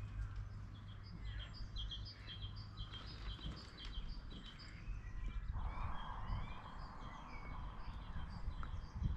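Birds singing in a garden: many short, high chirps repeated throughout, over a low steady rumble. A soft hiss joins a little past halfway.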